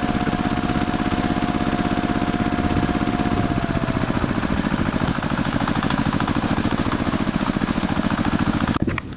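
A small motor running steadily with a rapid pulsing beat, cutting off abruptly near the end.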